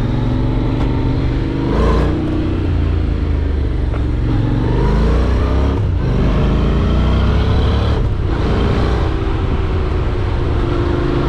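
Motorcycle engine accelerating through the gears: its pitch climbs, then drops back at each shift, three times.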